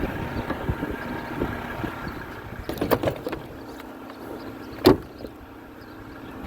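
Garbage truck at work: the engine rumbles, a few clanks come about three seconds in, and a single sharp bang, the loudest sound, comes near five seconds. After the clanks a steady low hum sets in.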